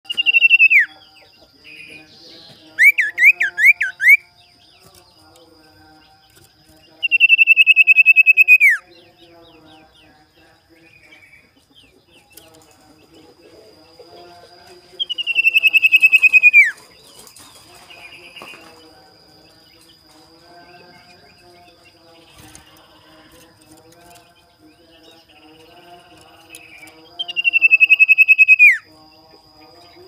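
A caged common iora (cipow/sirtu) calling loudly: four long trilled whistles that each slide downward, spaced several seconds apart, and a quick series of up-and-down notes about three seconds in. This is its rival-challenge call, used as a lure (pancingan) to set other ioras calling. A faint steady high tone runs underneath.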